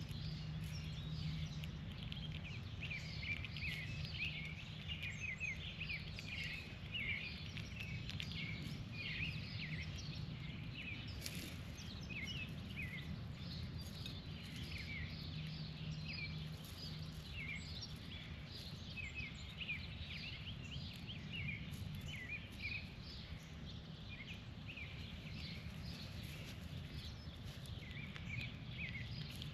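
Outdoor birds chirping: many short, quick calls overlapping, over a steady low hum.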